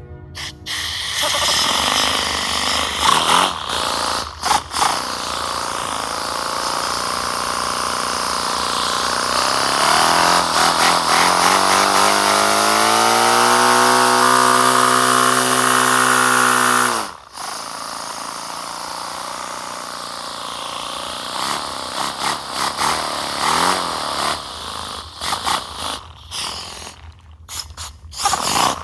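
Paper flat-twin air engine running on compressed air: a loud hissing buzz whose pitch climbs as the engine speeds up, then holds steady. About seventeen seconds in the level falls abruptly and it runs lower and rougher, sputtering and cutting in and out near the end.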